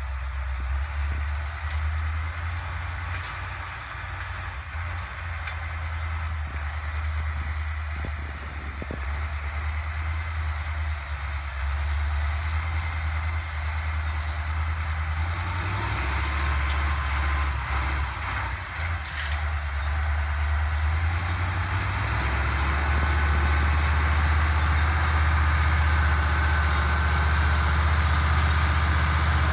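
White 2-180 farm tractor's diesel engine running steadily under load, its low drone growing louder about twenty-two seconds in.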